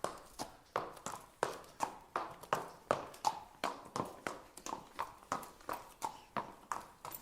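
A horse's hooves clip-clopping at a walk: sharp hoofbeats in a steady, even rhythm of about four a second.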